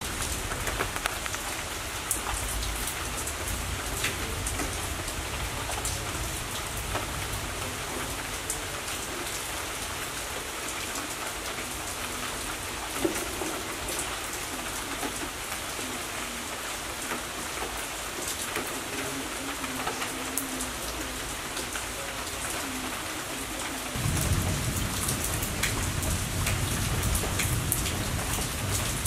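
Steady rain falling on garden plants, an even hiss with close drops pattering on leaves. A low rumble sets in about five seconds from the end and makes it louder.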